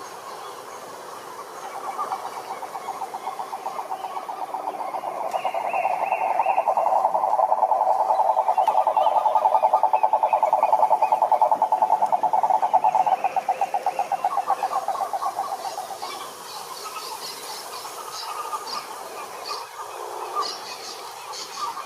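Frogs calling in a pond chorus: a long, fast pulsed trill swells to its loudest mid-way and fades out after about 16 seconds, with quick, higher clicking calls from other frogs near the end.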